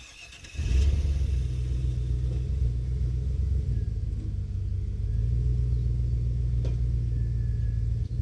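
Pickup truck engine running with a steady low rumble, coming in suddenly about half a second in.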